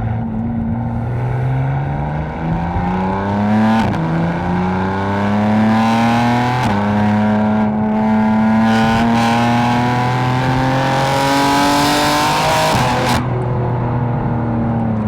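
Catless, tuned BMW M4's twin-turbo inline-six accelerating hard, its note climbing steadily through the gears with upshifts about 4 and 7 seconds in. A rising rush builds over the long last pull and cuts off abruptly near the end as the throttle closes.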